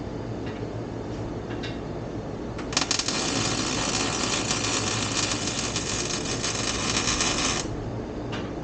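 Wire-feed welder arc crackling and sizzling steadily for about five seconds, starting about three seconds in and cutting off near the end, over a steady low rumble.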